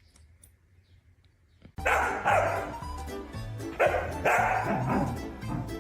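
A dog barks over background music with a steady bass line: two pairs of barks about a second and a half apart, starting right as the music cuts in about two seconds in after near silence.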